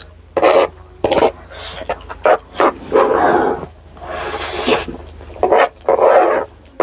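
Close-up eating sounds of a mukbang: a string of short chewing and smacking noises, with a longer hissing slurp a little after four seconds in.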